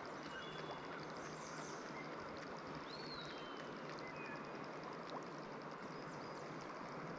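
River water running steadily over a shallow stretch, with a few short, high whistled bird calls, one about three seconds in.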